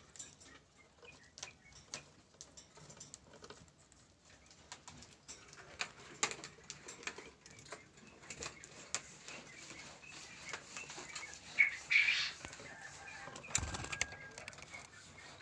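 Lovebirds flapping their wings and scuffling, with scattered sharp clicks throughout. A louder burst about twelve seconds in is followed by a low thump.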